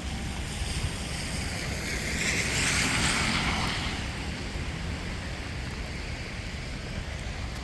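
A vehicle passing on a wet road, its tyres hissing through the water: the hiss swells about two seconds in and fades by about four seconds. Under it, steady rain and a low wind rumble on the microphone.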